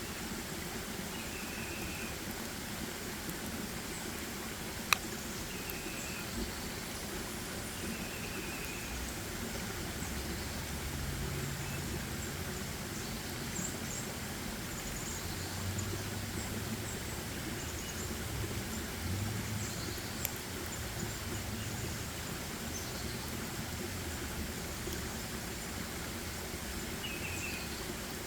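Forest ambience: a steady rushing background, with a bird giving short high chirps every few seconds, most often in the opening seconds and again near the end. A low hum rises and fades through the middle, and there is one sharp click about five seconds in.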